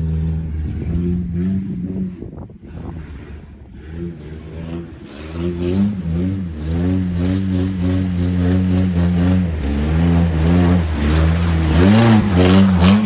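Truck engine revving under load, the revs rising and falling; it eases off about two seconds in, then builds again and is loudest near the end, with a rushing noise over it.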